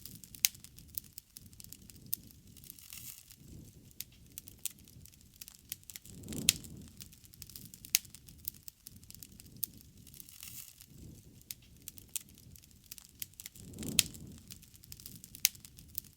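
A wood bonfire crackling, with many sharp pops and snaps throughout. A low rushing surge of the flames swells about six seconds in and again near the end, each with a loud pop.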